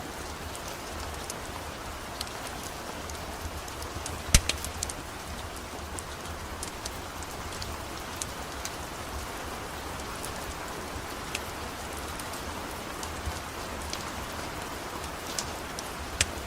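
Steady rain hissing, with the sharp pops and crackles of a wood fire scattered through it; one loud crack about four seconds in.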